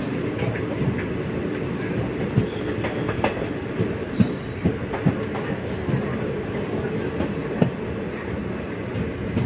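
Express train running on the rails: a steady rumble with irregular sharp clacks of wheels over rail joints.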